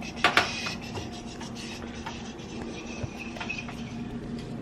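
Pancake cooking in a buttered pan: two sharp knocks about a quarter second in, then light scraping and crackling over a steady low hum.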